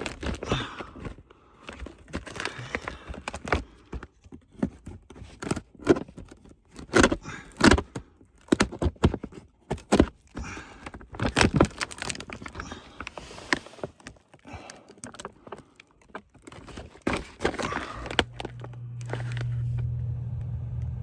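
Irregular scrapes, clicks and rustles of a utility knife working at the tape wrapped on a condensate drain line. A steady low hum starts near the end.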